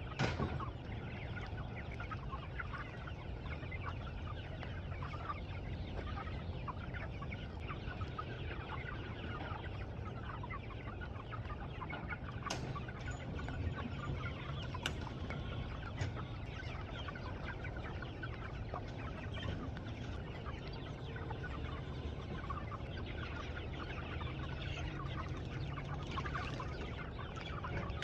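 A flock of meat chickens clucking and chattering continuously over a steady low rumble, with a couple of sharp clicks around the middle.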